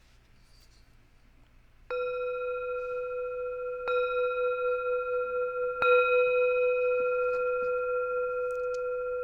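Singing bowl struck three times, about two seconds apart, each strike ringing on in one long, slowly wavering tone; the third strike is the loudest. The bell marks the end of the meditation.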